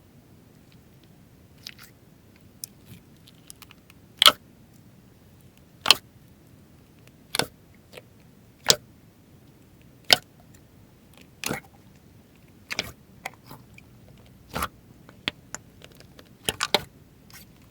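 Slime being pressed and worked by hand, giving a sharp pop about every second and a half, with small crackles in between.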